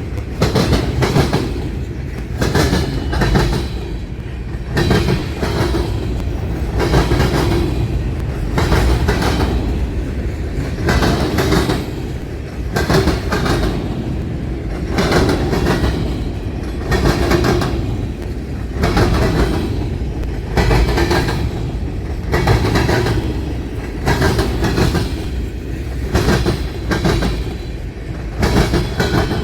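Freight cars of a Union Pacific manifest train rolling past, their wheels clacking over the rail joints of the diamond crossing in a steady repeating rhythm of about one beat a second.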